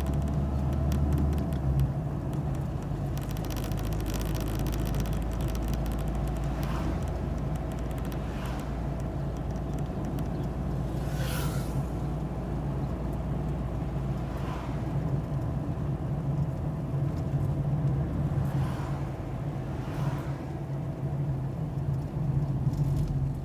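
Steady engine hum and road noise of a car being driven, heard from inside, with a few brief swishes that swell and fade.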